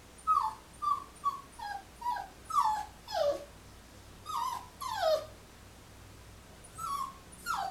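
Portuguese Water Dog puppy whining in a crate, protesting at being shut in: about a dozen short high cries, each falling in pitch, coming in uneven bursts.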